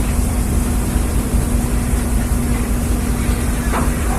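Fishing boat's engine running steadily, a constant low drone with a steady hum, with a brief higher sound near the end.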